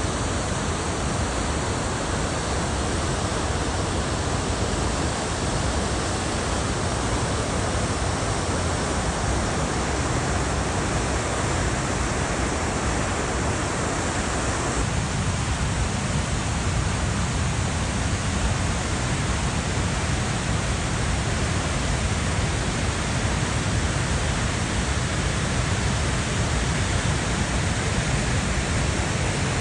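Floodwater rushing through the open floodgates of a hydroelectric dam: a steady, loud wash of water noise. About halfway through the sound changes abruptly to a deeper rumble.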